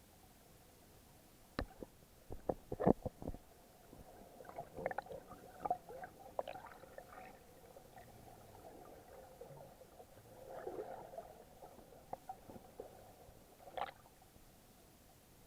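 Muffled sound from an action camera in its waterproof housing while snorkeling: a steady low hum with irregular sharp clicks and knocks, loudest in a cluster a few seconds in, and scattered crackling after.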